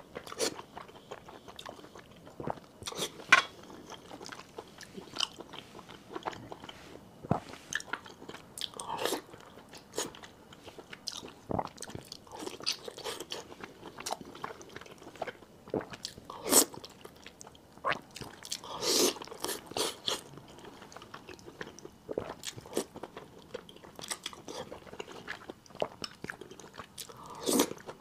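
Close-miked chewing of soft, glazed braised pork belly: wet mouth sounds and lip smacks in an irregular run of sharp clicks, with a few louder smacks along the way.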